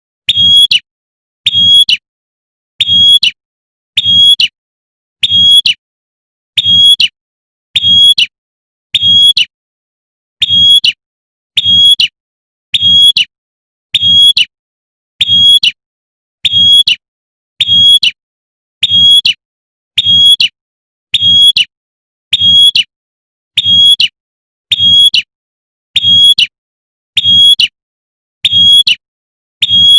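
Female prenjak (prinia) giving its sharp 'tembakan' call over and over, one short call about every 1.2 seconds in an even, unchanging rhythm: the female's call that draws in a male.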